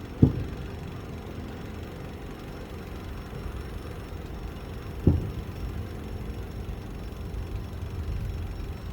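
Two aerial firework shells bursting, heard as deep booms about five seconds apart, over a steady low background rumble.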